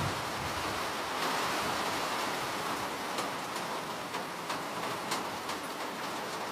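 Steady rain falling, a dense even hiss, with scattered individual drops ticking sharply, more of them in the second half.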